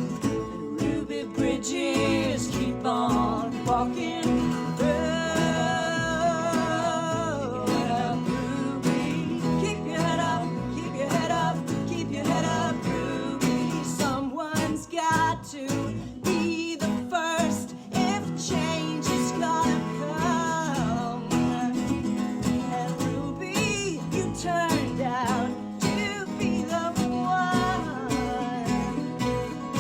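Live acoustic folk band playing an instrumental break: strummed acoustic guitar chords with a melody line weaving above them, no words sung.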